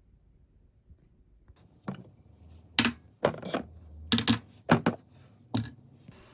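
Kitchen clatter: a quick, irregular run of about eight sharp knocks and clinks over some three seconds, starting about two seconds in.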